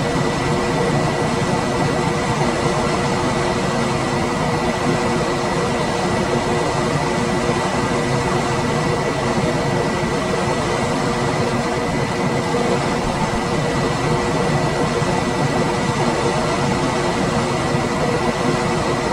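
Room air conditioner running steadily: an even rush of fan air with a faint steady hum and a thin, high, constant whine.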